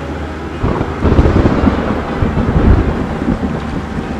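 A roll of thunder: a crackling rumble that breaks in about half a second in, swells to its loudest over the next two seconds, then eases off.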